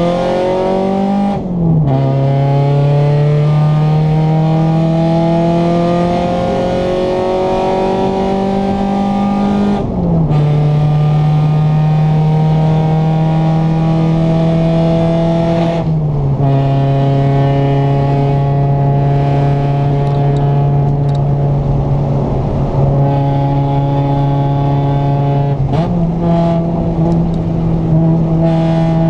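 Honda Civic EG4's engine through a Buddy Club aftermarket exhaust, driving through the gears. The exhaust note climbs, drops sharply at upshifts near the start, about ten seconds in and about sixteen seconds in, and holds fairly steady in between. It jumps higher a few seconds before the end.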